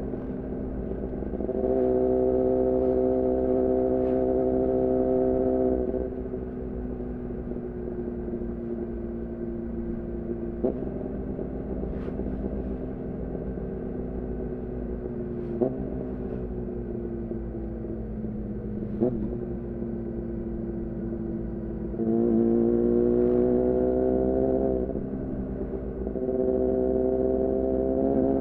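2014 Yamaha R6's inline-four through an aftermarket Leovince header and R9 titanium muffler, under way on the road. It pulls steadily for a few seconds, then the throttle closes and the revs sink slowly, with three short rev blips as it shifts down. Near the end it pulls hard again with the revs climbing.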